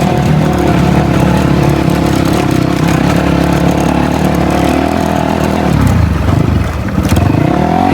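Dirt bike engine running while riding, a steady loud drone; about six seconds in the engine note drops and then climbs again as the bike picks up speed.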